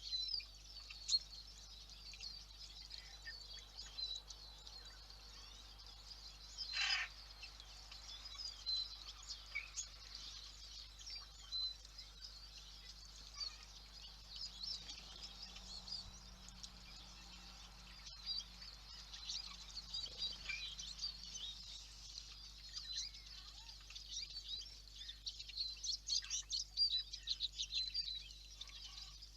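Small birds chirping and calling in many short, high notes, thickening near the end, with one louder, harsher call about seven seconds in. A faint steady hum runs underneath.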